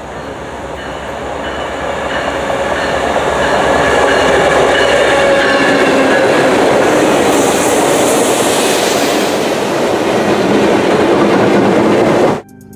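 MBTA work train led by MP36PH-3C and F40PH-2C diesel locomotives passing close by: locomotive engines and wheels running on the rails, growing louder as the train approaches, then holding loud and steady as the cars go past. The sound cuts off abruptly near the end.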